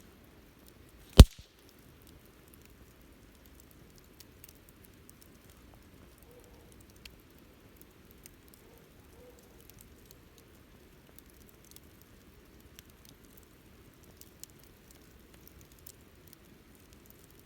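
Wood campfire burning, with sparse faint crackles and one loud, sharp pop about a second in.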